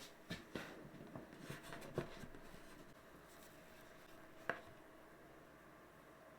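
A few faint taps and clicks of the microwaved donuts being handled and taken out of their mold, with one sharper click about two-thirds of the way through.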